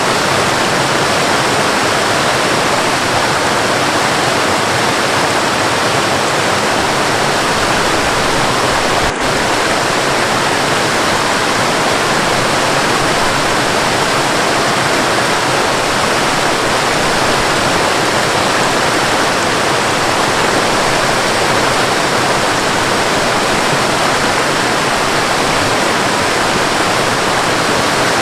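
Waterfall and rain: a steady, unbroken rush of falling water, with a momentary drop in level about nine seconds in.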